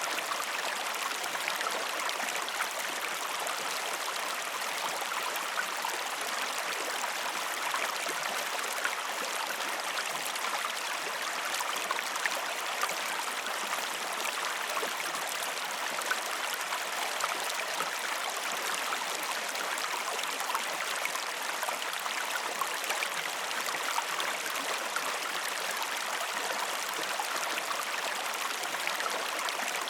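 River water flowing in a steady rush, with small splashes and drips ticking through it.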